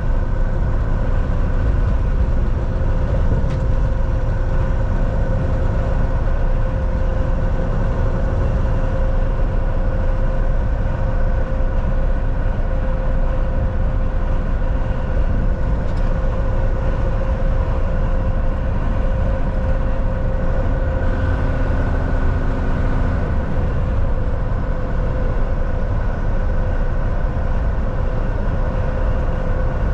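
Volvo VNL 760 semi-truck driving at a steady pace, heard from inside the cab: constant deep engine and road rumble with a steady hum over it.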